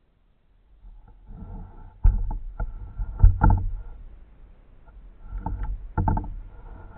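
Kayak paddling: paddle strokes splashing water, with sharp knocks and heavy thumps. It starts about a second in and comes in two bouts.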